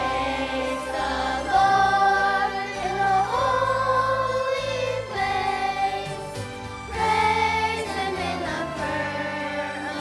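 A choir singing a song with instrumental accompaniment, in long held, shifting notes over a steady bass line.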